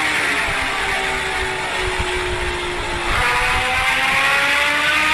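Motorcycle engine running under way: its note slowly sinks as the throttle eases, then about three seconds in it steps up and climbs steadily as the bike accelerates again.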